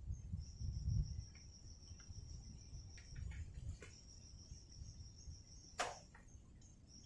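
A steady, high-pitched insect call that breaks off briefly a few times, over a low rumble. A few faint clicks, and one sharp click or knock near the end.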